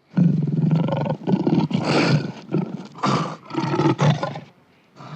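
Lion roaring: a series of deep roars with short pauses between them.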